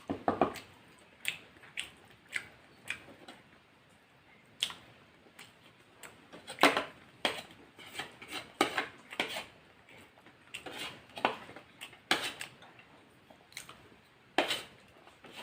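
A person eating fried chicken and rice: irregular short crunches, smacks and clicks, a dozen or so spread over the stretch with quiet gaps between.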